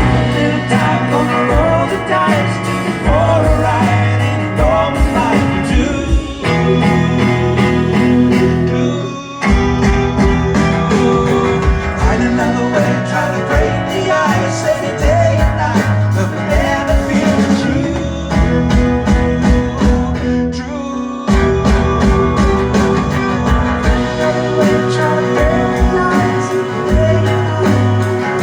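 Live rock band playing an instrumental stretch: guitars, bass and drums, with wordless singing gliding over it. A short drop in the music about nine seconds in, then the band carries on.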